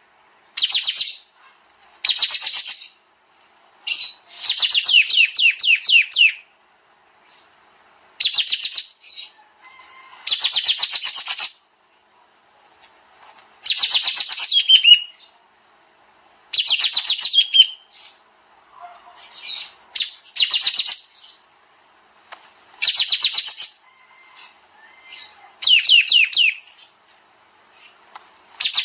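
Kapas tembak bird singing its rapid "tembak" bursts: fast runs of sharp, high repeated notes, one burst every two seconds or so, some ending in a falling slur.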